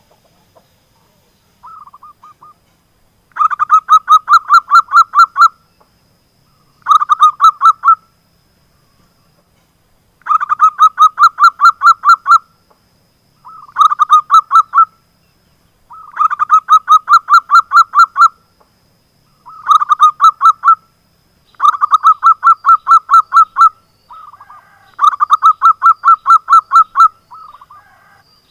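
Zebra dove (perkutut) cooing over and over: loud phrases of rapid staccato notes, about five or six a second, each phrase lasting one to two seconds with short pauses between. This is the call played as a lure to set other perkutut calling.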